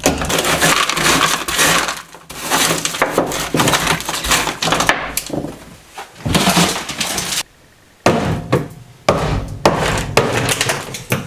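Old bitumen sound-deadening being scraped and cracked off a car's steel floor pan, in repeated strokes with short pauses and a brief stop about seven and a half seconds in.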